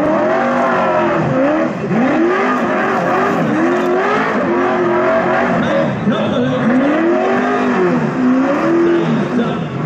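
NASCAR V8 engine screaming at high revs during a burnout, its pitch climbing and dropping again and again, with a new rise about every one and a half to two seconds. Tyres screech continuously underneath.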